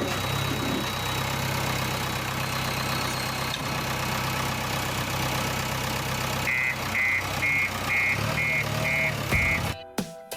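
A vehicle engine runs steadily with a low hum. About two-thirds of the way in, a high electronic beeper starts sounding about twice a second, like a machine's reversing alarm. Music cuts in at the very end.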